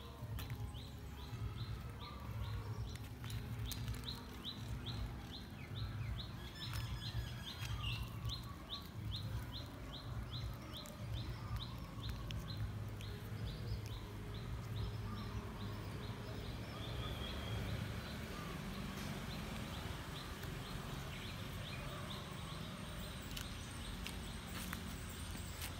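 A bird calling in a fast even series of short high chirps, about three a second, fading out about halfway through, over a steady low rumble of outdoor background noise.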